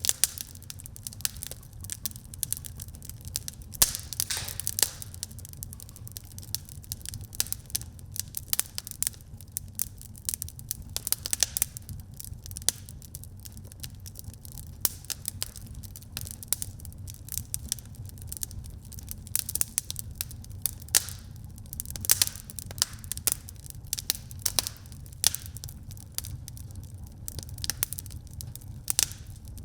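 Wood fire burning in a fireplace: a low steady rumble of the flames with dense, irregular crackles and pops throughout.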